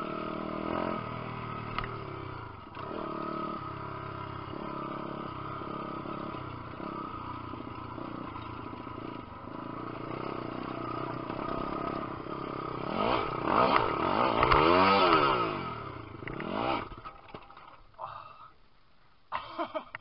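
Single-cylinder four-stroke 150cc pit bike engine running under way, its revs wavering, then rising and falling sharply through a louder stretch about two-thirds of the way in before the sound drops off near the end, with a few sharp clicks.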